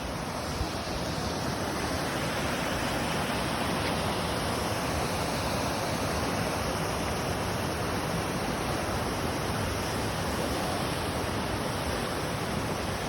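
Waterfall, steady rush of falling water.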